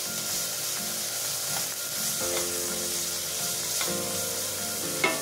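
Boiled corn kernels sizzling in hot oil in a kadai while a spatula stirs and scrapes them around the pan, with a sharper clack about five seconds in. Soft background music with held notes underneath.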